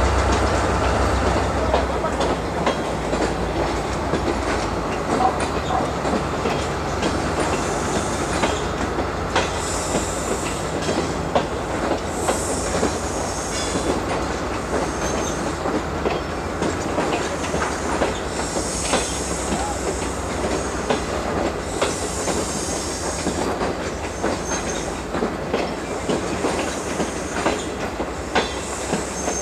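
CSR SDD7 diesel locomotive hauling a train of coaches through a junction. The engine's low running hum fades as it pulls away, the wheels click irregularly over rail joints and switches, and short bursts of high wheel squeal come again and again.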